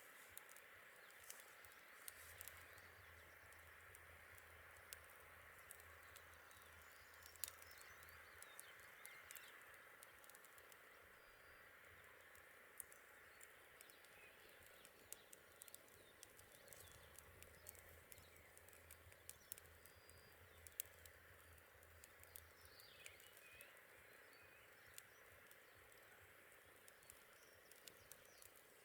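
Faint campfire crackling: irregular sharp pops and snaps of burning wood over a steady soft hiss.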